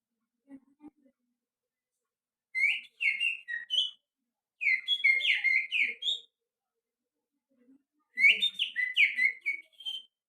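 A person whistling through the little finger in imitation of a white-rumped shama's song: three phrases of quick, sliding whistled notes, each lasting one to two seconds, with short pauses between them.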